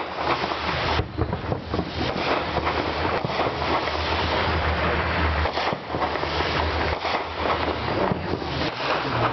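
Wind buffeting the microphone: a steady rushing noise with an uneven low rumble that comes and goes, and no distinct firework bangs.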